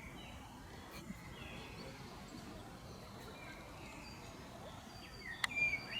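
Birds chirping and calling over a steady outdoor background hiss, the calls getting louder and busier near the end, with one sharp click shortly before the end.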